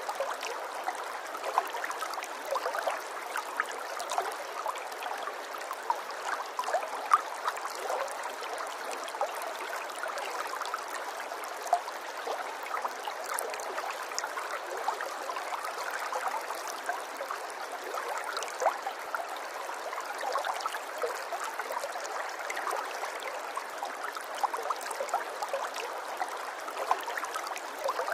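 Running water trickling and gurgling steadily, like a small stream over stones, with many small splashes and no low rumble.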